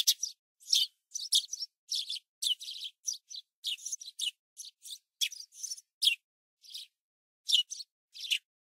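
Small birds chirping: a quick, irregular run of short high chirps and twitters, several a second, with clean silent gaps between them.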